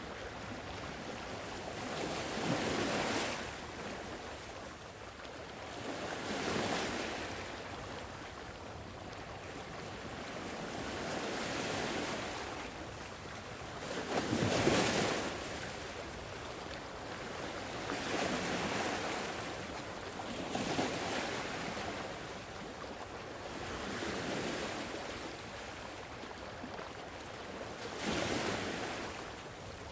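Sea waves washing onto a shore, each one swelling and falling back about every three to four seconds, one larger wave about halfway through.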